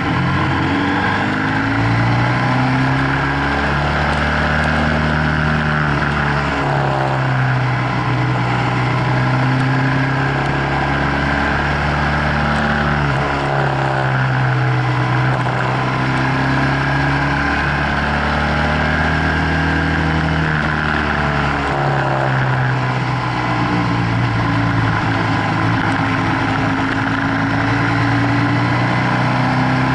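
BMW F800GS's parallel-twin engine under way, its note rising and falling again and again as the rider accelerates out of bends and rolls off into them, over a steady rush of wind.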